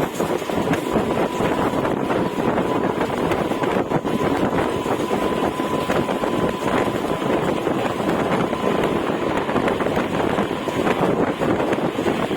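Electric-hauled express train passing at speed: a steady rumble and rattle of wheels on rail with many small clicks, and a faint thin whine through about the first half.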